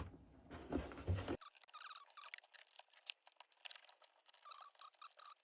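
Electrical wire being fed down through a hole, heard as faint scraping and rustling with small squeaks and a few light knocks.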